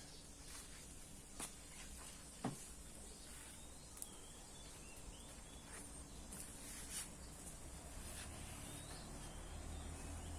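Quiet rural outdoor background with faint bird chirps and a few sharp clicks, the loudest about two and a half seconds in.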